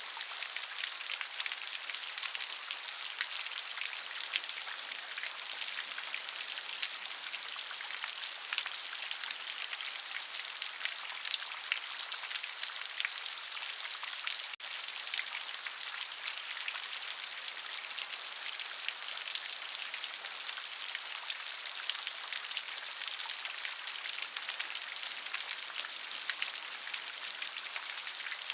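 Steady, dense rainfall: a continuous hiss made of many individual drops striking a surface. A momentary break comes about halfway through.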